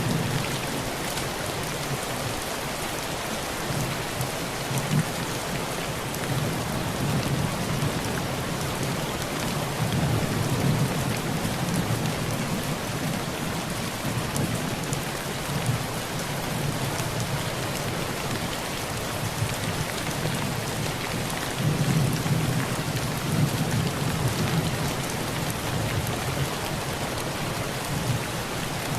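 Steady heavy rain on a tin roof, with low thunder rolling underneath and swelling a few times.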